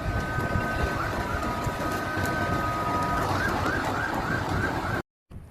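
An emergency vehicle siren holds a steady high tone, then about three seconds in switches to a fast repeating rising yelp, over a heavy low rumble of background noise. It cuts off abruptly near the end.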